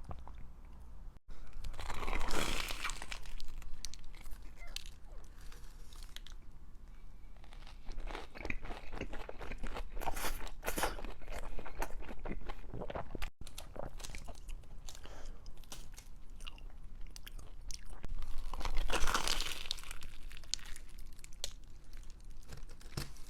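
Close-miked eating sounds: a person biting into and chewing crunchy food, in several bursts of crunching with quieter chewing between.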